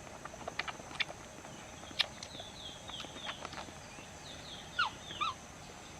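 Baby capuchin monkey giving short, high, falling chirps, with two louder squeaks near the end, among scattered light clicks and taps.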